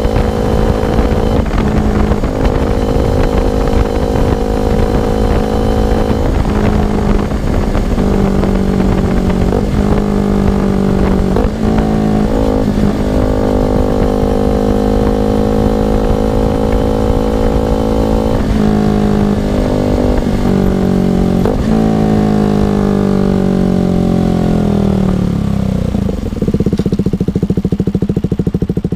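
Single-cylinder KTM RC motorcycle fitted with an aftermarket R9 exhaust, revving up through the gears with frequent short breaks in the note at the shifts. Later it slows with a falling pitch and settles to a steady, lower-pitched running note near the end.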